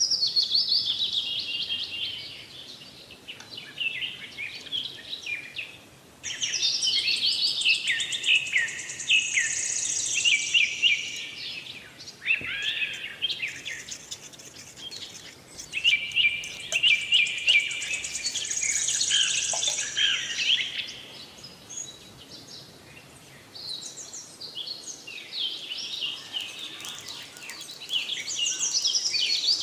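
Birdsong: many quick, high chirps and trills in phrases several seconds long, with quieter gaps between them.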